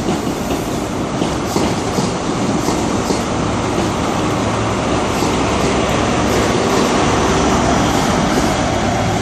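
InterCity 125 High Speed Train with class 43 diesel power cars running past along the platform, its wheels clicking over the rail joints. A low diesel engine drone builds from about halfway through as the rear power car comes closer.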